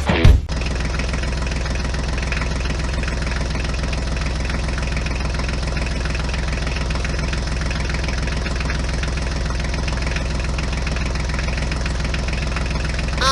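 Engine idling steadily with a fast, even knocking beat. It starts as music cuts off about half a second in.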